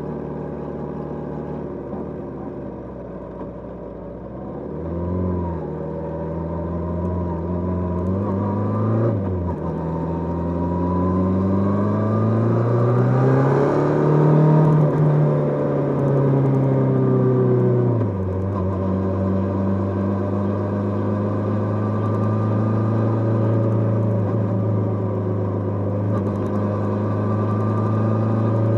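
Kawasaki GPZ550's air-cooled inline-four engine heard on the move. The revs hold steady, rise briefly, then drop sharply at a gear change. They climb again to a peak, drop sharply once more, and settle into a steady cruise.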